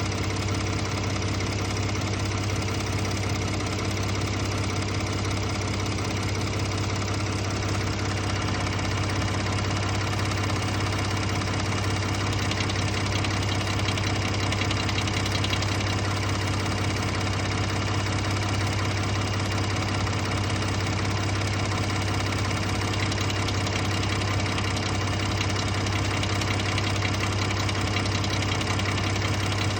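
Ford F-150's 3.5L EcoBoost twin-turbo V6 idling steadily with a ticking, rattling noise, which the owner suspects is cam phaser rattle.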